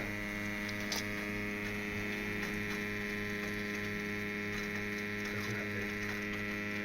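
Thermital Hiperion diesel-fired boiler running with a steady electric hum, with a faint click about a second in.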